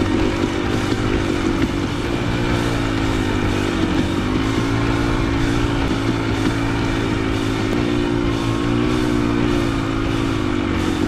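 Dirt bike engine running under way at a fairly steady speed, its pitch wavering slightly as the throttle changes.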